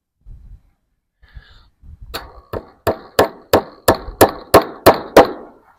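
Hammer driving a fence staple to hold wire fencing to a wooden fence, about ten sharp blows at roughly three a second starting about two seconds in, most of them louder than the one before.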